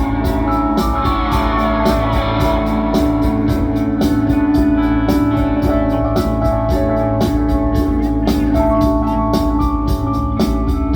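Rock band playing live in an instrumental passage with no singing: held chords over a steady drum beat.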